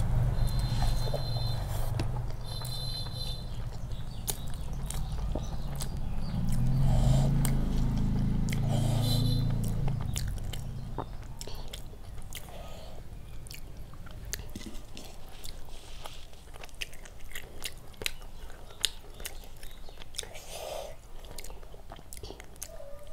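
Close-up chewing and wet mouth clicks of a person eating rice, dal and fish with her hands. A low rumble runs under the first ten seconds or so, swelling around seven seconds and then fading away.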